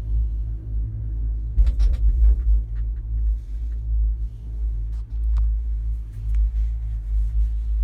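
Strong wind buffeting the microphone as a steady, heavy low rumble in a gondola cabin, with a cluster of clicks and knocks about two seconds in and a few more around five seconds.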